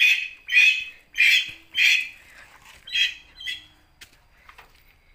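A bird squawking loudly, about six short harsh calls in quick succession, roughly two a second, that stop about three and a half seconds in.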